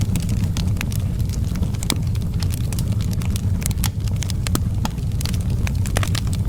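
Wood fire burning in an outdoor fireplace: a steady low rumble of the flames with irregular sharp crackles and pops from the burning logs.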